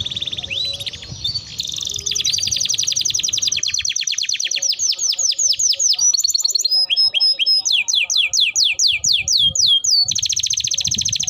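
Domestic canary in full song, delivering a continuous run of rapid trills that switch to a new trilled phrase every couple of seconds, with slower falling sweeps in the second half.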